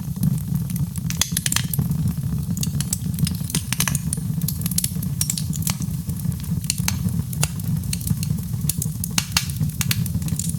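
Wood fire crackling, with frequent irregular sharp pops and snaps over a steady low rumble of the burning fire.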